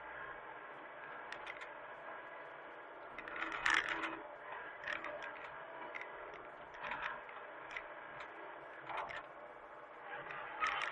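Hitachi mini excavator working: a steady running hum, with intermittent scraping and clattering, loudest about a third of the way in and again near the end.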